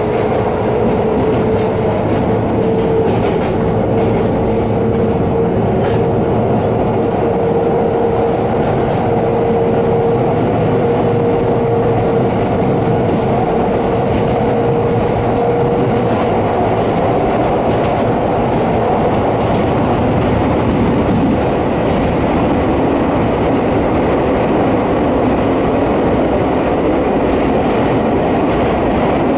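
Kobe Electric Railway train running uphill, heard from inside the car: steady wheel-and-rail running noise with a motor whine that rises slightly in pitch and fades out about halfway through.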